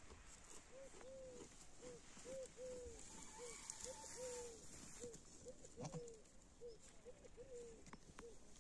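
A bird calling over and over in short, faint notes, about two a second, each note rising and falling in pitch.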